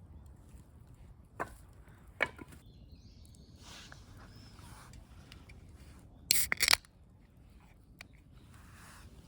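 A few sharp knocks and cracks over a quiet background: single ones early on, then a louder quick cluster of cracks a little past the middle.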